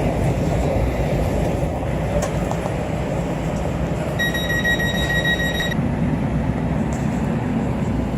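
Inside a Los Angeles Metro Expo Line light-rail car pulling away after its doors close: a steady low rumble of the train running. About four seconds in, a steady high beep sounds for about a second and a half.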